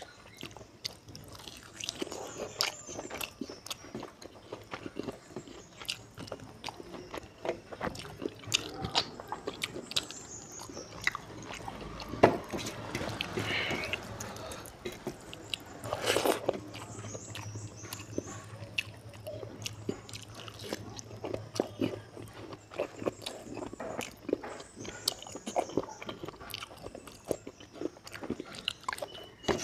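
Close-miked wet chewing and lip smacking of a person eating pork curry and rice by hand, with soft crunches and small clicks throughout and one sharper click about twelve seconds in.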